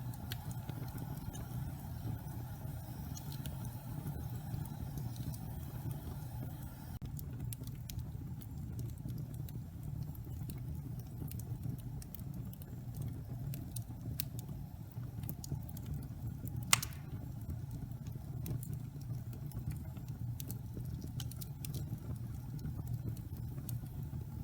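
Wood fire burning in a fireplace: a steady low rumble with scattered crackles and one loud pop about two-thirds of the way through.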